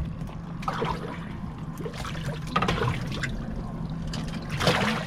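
Water splashing and trickling in a few irregular bursts, over the steady low hum of an idling boat motor.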